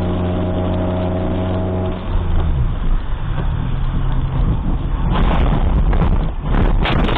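Vehicle engine running with a steady hum that gives way after about two seconds to rumbling road noise, with a cluster of sharp knocks and rattles near the end.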